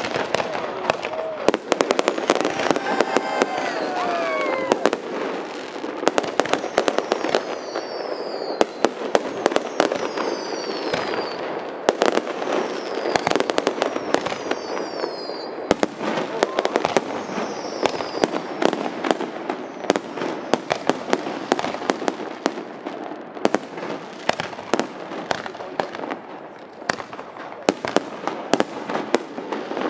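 Fireworks display: a continual run of sharp bangs and crackles from bursting aerial shells, with a few short falling whistles through the middle.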